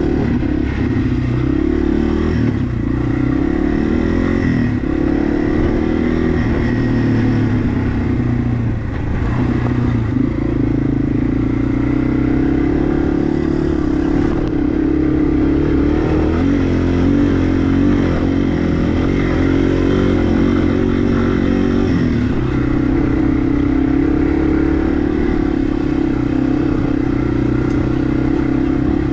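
Yamaha TW200's single-cylinder four-stroke engine running as the bike is ridden along a dirt trail, its note rising and falling with the throttle and easing off briefly about nine seconds in.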